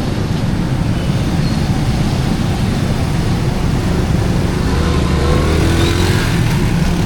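Street traffic: motor vehicle engines running steadily, with one engine coming closer and getting a little louder about five seconds in.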